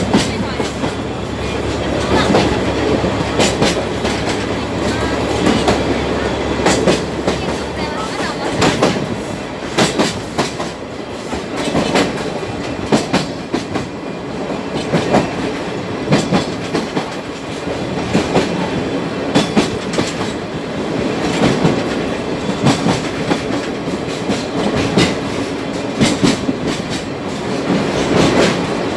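Sagano trolley train carriage running along the line, heard from inside the car: a steady rumble of wheels on track with frequent irregular clicks and clacks over the rail joints. A low hum under it drops away about eight seconds in.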